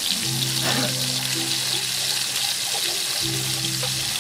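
Tofu pieces frying in hot oil in a wok, a steady sizzling hiss, over background music with long held notes.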